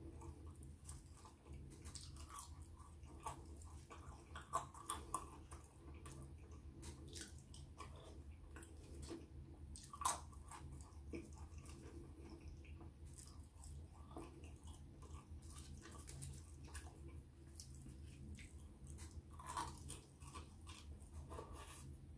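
A person chewing and crunching chips close to the microphone, with many small wet clicks of eating scattered throughout and a sharper one about ten seconds in.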